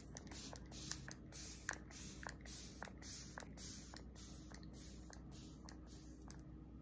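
Pump-spray face mist bottle sprayed over and over, about two short hisses a second, stopping about six seconds in.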